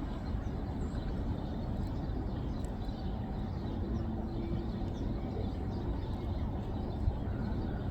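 Steady low outdoor background rumble, with a faint held hum in the middle; no hawk cry is heard.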